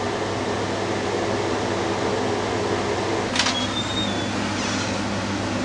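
A steady electrical hum and hiss of background noise, with one brief click about three and a half seconds in, followed by a faint thin high tone.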